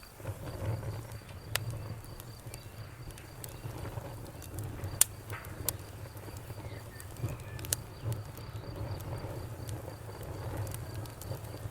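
Fire crackling: a low fluttering rumble of flames with a few sharp pops scattered through it, the loudest about five seconds in.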